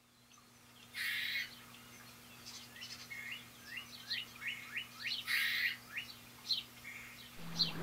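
Birds chirping: many short, quick rising chirps, with two louder harsh, hissy bursts, one about a second in and one about five seconds in. Just before the end, synthesised music starts with a low steady tone and fast rising sweeps.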